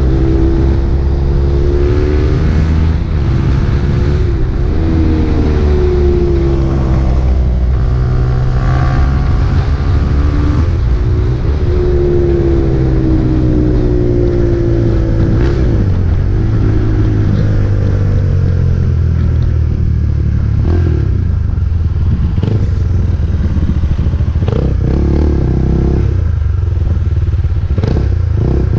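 KTM RC 390's single-cylinder engine through an Akrapovič exhaust while riding, the revs rising and falling repeatedly with the throttle and gear changes. In the second half, sharp clattering knocks come in over the engine.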